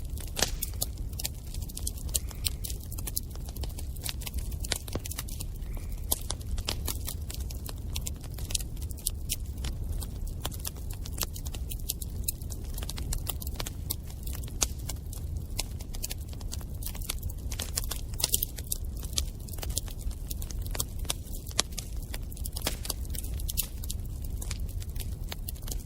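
Wood fire burning, with a steady low rumble and frequent irregular pops and crackles.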